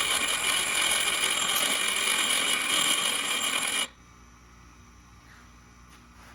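Grinder wheel biting into a steel bolt: a loud, harsh grinding that cuts off sharply about four seconds in, leaving a low steady hum. This is the point being ground onto the headless bolt's end.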